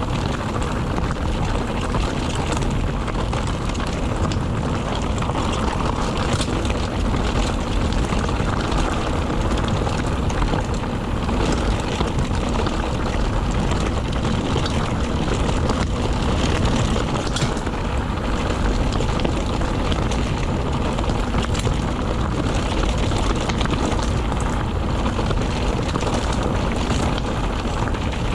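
Wind rushing over the mountain bike's camera microphone, with the tyres and frame rattling and knocking over rough, slippery limestone on a descent.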